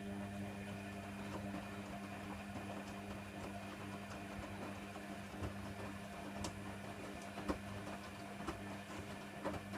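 Hoover Nextra HNWL7146 washer dryer running, a steady machine hum with light clicks and taps scattered through it.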